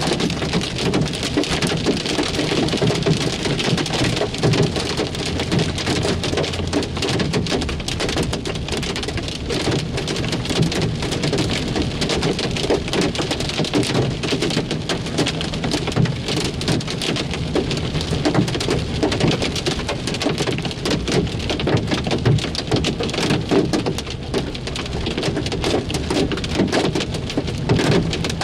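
Heavy hail, large-marble-sized stones, pelting down in a dense, steady clatter of countless small impacts.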